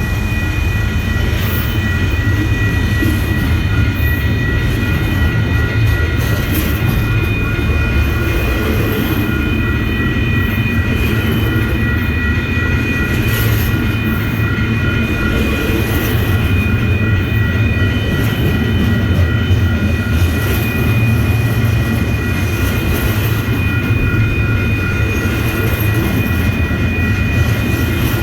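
Train running by on the rails: a steady low rumble with scattered clicks from the wheels and a faint steady high whine.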